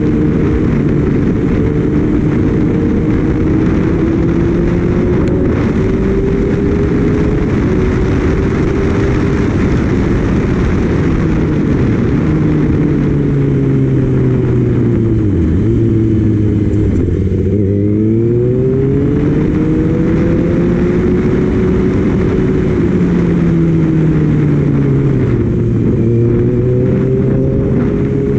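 Kawasaki Ninja ZX-6R inline-four engine running at speed under heavy wind noise on the microphone, which the title calls very loud. The engine pitch falls about halfway through as the bike slows, then climbs steadily again as it accelerates.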